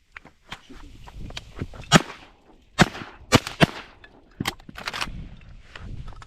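A rapid volley of shotgun shots from two hunters firing at a flock of teal: about five loud reports between two and four and a half seconds in, among several fainter ones.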